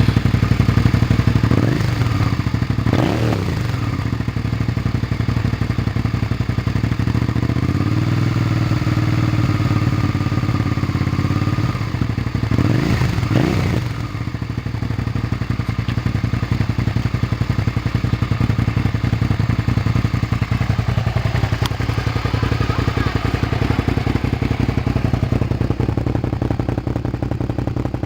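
Suzuki SV650's V-twin engine idling just after starting, with its exhaust note steady. The throttle is blipped twice a couple of seconds in and twice more about twelve seconds in, the pitch rising and falling quickly each time.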